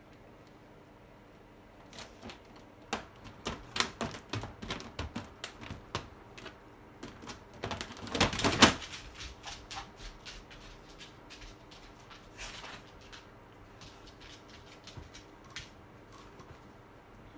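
A run of irregular sharp clicks and knocks, densest in the first half and loudest in a short clatter near the middle, thinning to scattered ticks afterwards.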